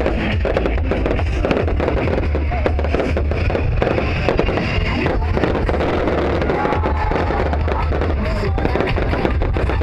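Fireworks crackling and popping in rapid, unbroken succession, with music playing along.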